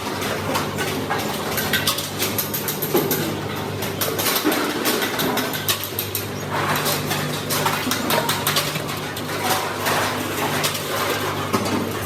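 Metalworking shop noise: frequent light metallic clinks and taps over a steady low machine hum, which drops out briefly near the middle.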